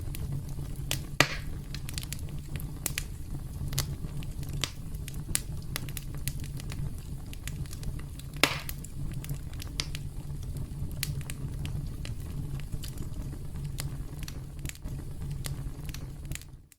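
Campfire crackling: a steady low rumble of burning wood with frequent sharp snaps and pops, two of them louder, about a second in and near the middle. The sound cuts out briefly at the very end.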